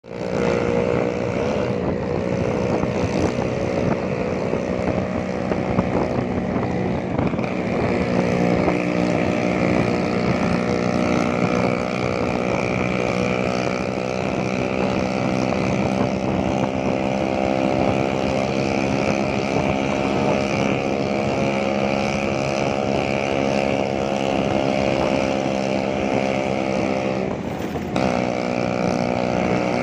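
Old Vespa scooter's two-stroke engine running steadily under way. About three seconds before the end the pitch dips briefly, then holds steady again.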